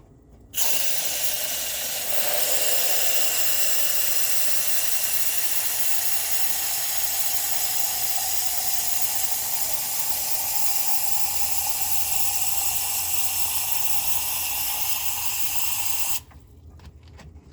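Water rushing steadily out of the drain of a small 10-gallon water heater as the tank is flushed. It starts suddenly about half a second in and cuts off suddenly near the end.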